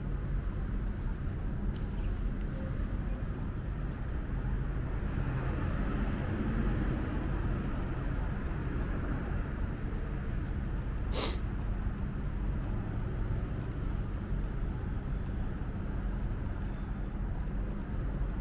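Steady low hum and rumble of a subway platform, with one sharp click about eleven seconds in.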